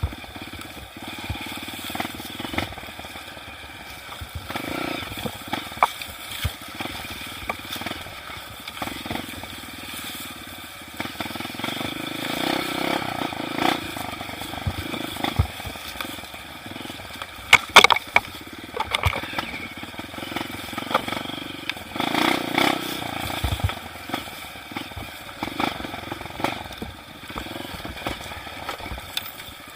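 Trail dirt bike engine running while being ridden over rough ground. Irregular knocks and rattles are mixed in, the sharpest a little past halfway.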